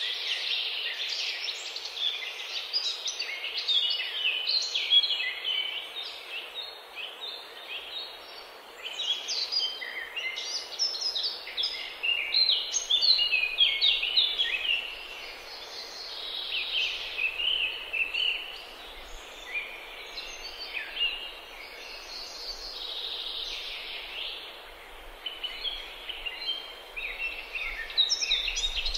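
Many birds chirping and singing together, a dense run of short high calls that overlap throughout, over a steady background hiss.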